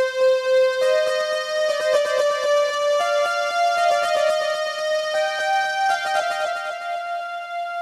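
A synth lead preset from the SONiVOX Sampla sampler playing a melodic line: a sustained note that steps up in pitch every second or two, with quick repeated keyboard-like notes under it.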